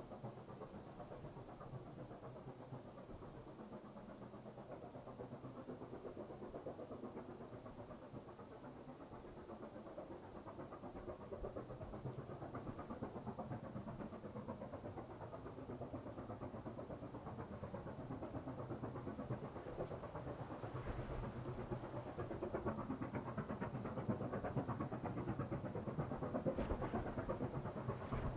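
Distant QJ-class steam locomotive running, a steady rumble that grows slowly louder as it approaches.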